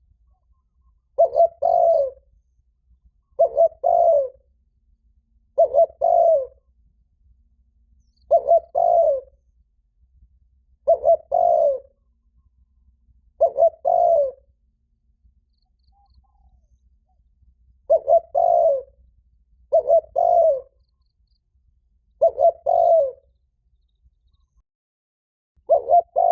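Spotted dove cooing, very loud and resonant: short phrases of two or three coos repeated about every two seconds, with one longer pause a little past the middle. It is a male's challenge coo, the call used to provoke a rival to fight.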